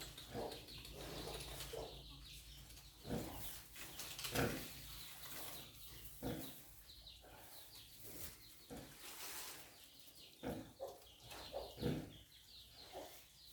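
A sow and her newborn piglets making short, irregular sounds every second or two in their pen.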